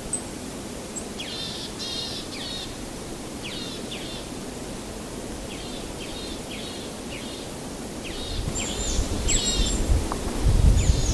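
Small birds chirping in repeated clusters of quick, downward-sweeping notes over a steady outdoor hiss. From about eight seconds in, an uneven low rumble swells and grows louder near the end.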